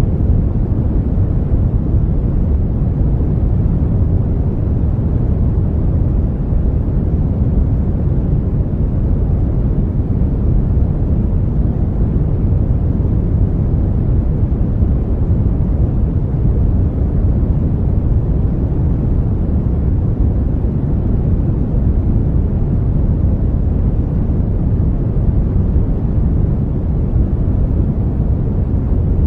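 Steady brown noise: an even, unchanging deep rumbling hiss, strongest in the bass and fading toward the treble, with no events or changes.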